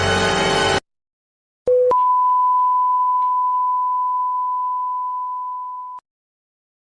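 Background music that stops abruptly, then after a short gap a brief low electronic beep followed by one long, steady, high-pitched beep tone lasting about four seconds, fading slightly before it cuts off suddenly.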